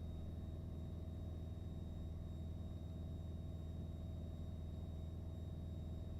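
Piper PA-28's piston engine and propeller in steady cruise, heard from the cockpit as an even low drone, with a faint steady high tone above it.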